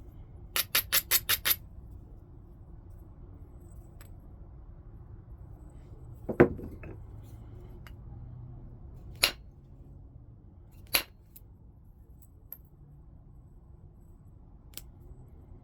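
Flintknapping, stone struck and flaked by hand. A quick run of sharp clicks comes about half a second in, then a single heavy, ringing strike about six seconds in, which is the loudest. Sharp clicks follow about three and five seconds later, and a few faint ticks come near the end.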